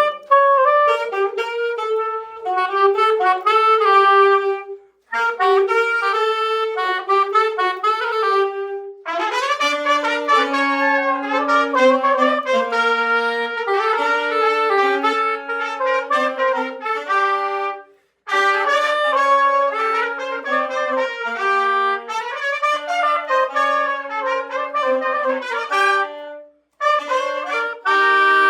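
Trumpet and saxophones playing a salsa tune together in phrases, with short breaks about 5, 9, 18 and 26 seconds in. About 9 seconds in, a lower saxophone line joins under the melody.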